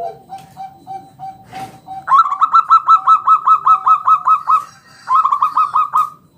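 Zebra dove (local perkutut) cooing: a few soft, low notes, then about two seconds in a loud, rapid run of short rising-and-falling coos, about six a second. After a brief pause there is a second, shorter run near the end.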